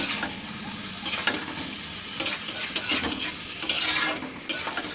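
Chicken pieces in thick masala sizzling in a kadai as they are fried down (kosha), while a spatula stirs and scrapes the pan in repeated strokes over a steady frying hiss.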